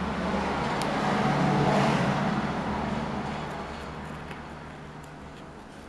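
A road vehicle passing by, its noise swelling to a peak about two seconds in and then slowly fading away, with a few faint small clicks.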